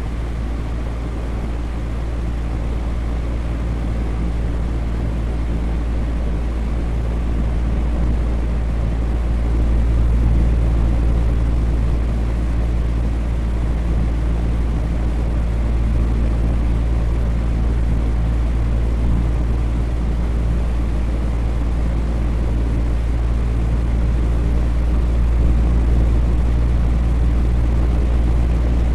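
Fan running steadily: a constant low rush of air with a faint hum underneath.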